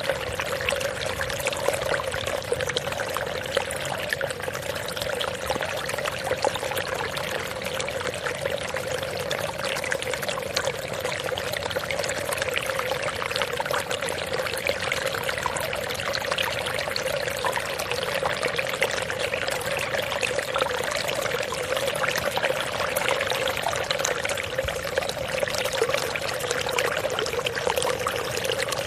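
Steady running, pouring water, an even gurgling rush that keeps on without a break.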